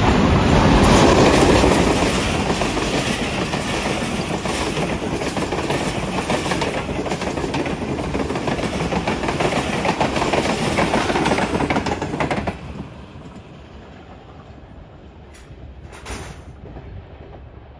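Express passenger train running through a station at high speed, its coaches rushing past the track in a loud, continuous rush. The noise drops away suddenly about twelve and a half seconds in, leaving a much quieter background.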